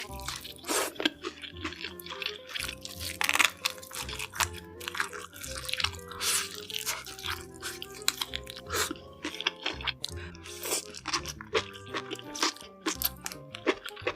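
Close-miked crunching and chewing of crisp food, many sharp irregular crunches, over background music.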